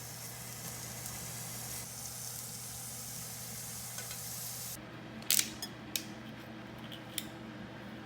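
Food sizzling in a pan, a steady hiss that dies down about five seconds in, followed by a few sharp clicks and clinks of utensils.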